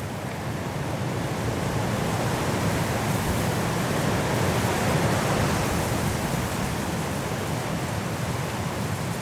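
High wind blowing through trees in a snowstorm, a steady rushing that swells to a gust about halfway through and eases again.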